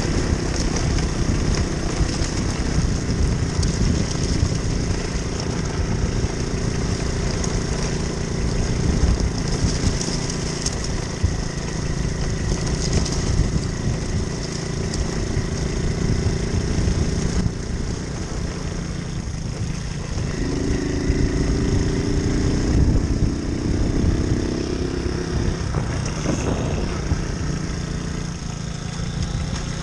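Moped engine running while being ridden, over a steady hiss. The engine note shifts about two-thirds of the way through, and there is a brief rising sweep near the end.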